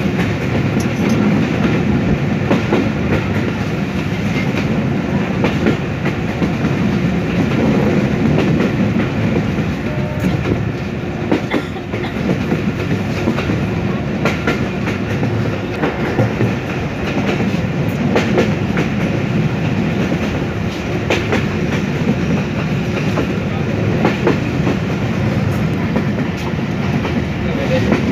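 Bangladeshi passenger train running at speed, heard from aboard a carriage: a steady rumble of wheels on rail, with scattered clicks as the wheels pass over rail joints.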